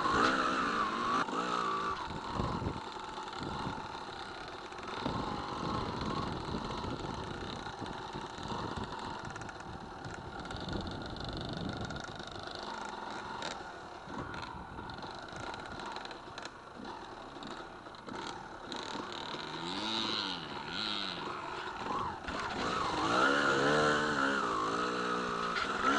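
Honda dirt bike engine revving up and easing off as it is ridden over rough ground. The revs rise and fall throughout and are loudest at the start and again near the end.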